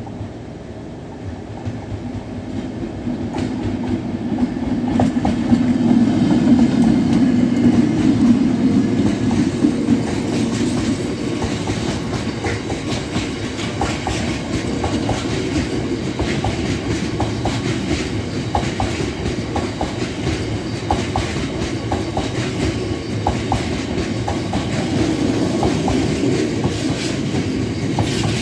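Freight train of biomass hopper wagons passing close by. The locomotive grows louder over the first few seconds and is loudest about six to nine seconds in. Then the wagons roll past with a steady rumble and a clickety-clack of wheels over the rail joints.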